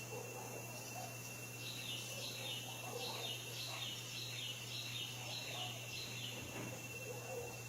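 A bird singing a fast series of short, repeated high notes, each sliding downward, about three a second for several seconds. A steady high thin tone runs underneath.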